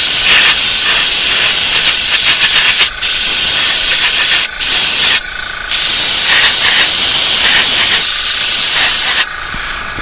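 Airbrush spraying paint in a loud, steady hiss, with the trigger let off three times for a moment (about 3 seconds in, around 4.5 seconds, and just after 5 seconds). The spray stops near the end, leaving a fainter hiss.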